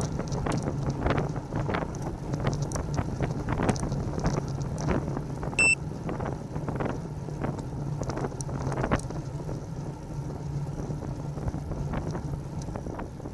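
Wind buffeting the microphone of a bike-mounted camera while cycling, over steady road and traffic rumble with scattered knocks from bumps. A single short high-pitched beep sounds about halfway through.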